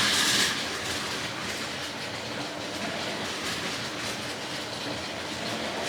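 Plarail battery-powered toy train running along plastic track, a steady rattle of its small motor and wheels, louder for the first half second.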